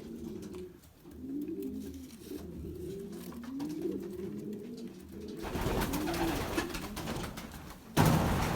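Racing pigeons cooing, repeated low bending coos. About five and a half seconds in, a broad rustling noise joins them, and a louder burst of it comes near the end.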